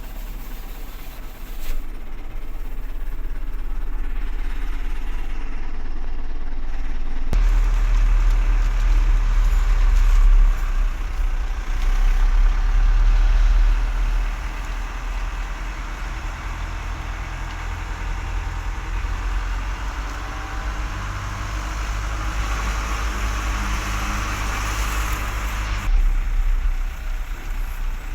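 A truck's engine running steadily with a low hum. About seven seconds in the low rumble becomes noticeably louder.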